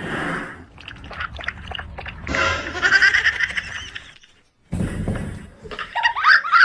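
Animal cries with wavering pitch, in two bursts split by a short gap about four and a half seconds in.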